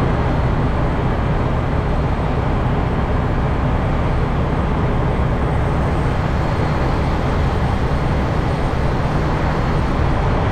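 Semi truck's diesel engine running steadily, a constant low rumble.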